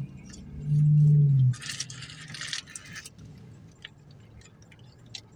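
A short low hum lasting under a second, then about a second and a half of rustling with scattered light clicks and rattles: food and its packaging being handled while eating.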